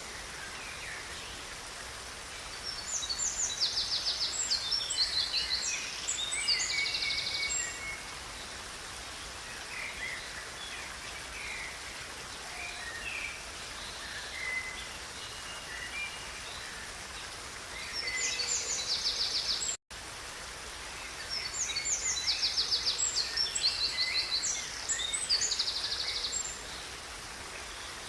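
Songbirds singing rapid, high trills and chirps in three spells over the steady rush of a river. The sound cuts out for an instant about twenty seconds in.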